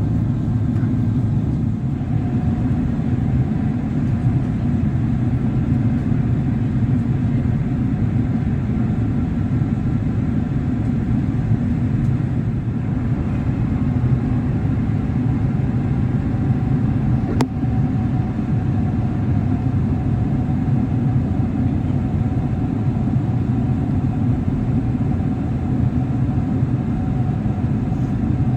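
Steady cabin noise aboard an Airbus A350-1000 in flight: a deep, even rumble of airflow and its Rolls-Royce Trent XWB engines, with a faint steady hum above it. There is one brief click about two-thirds of the way through.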